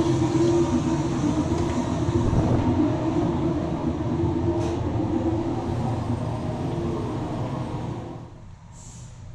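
Steady machinery drone: a low hum with a few held tones that falls away sharply about eight seconds in.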